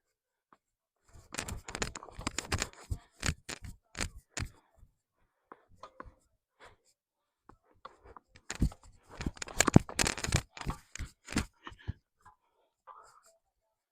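Rapid clicking and rustling of a body-worn camera knocking against the wearer while she runs, in two runs of a few seconds each with a pause between.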